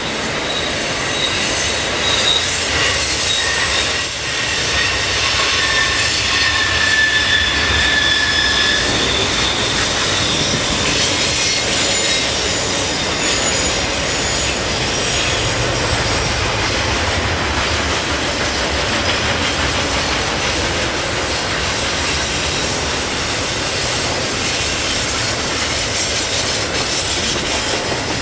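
Double-stack intermodal container cars of a freight train rolling past, with a continuous rumble and clatter of steel wheels on the rails. High, steady wheel squeal rings out over it through the first several seconds, then fades.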